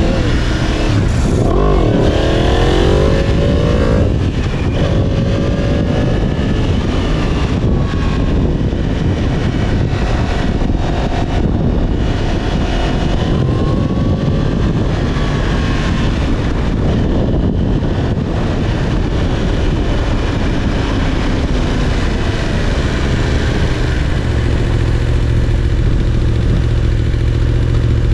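Motorcycle engine running while being ridden, under steady wind rush. Its pitch rises and falls several times as the throttle opens and closes, and it settles into a steady low hum near the end.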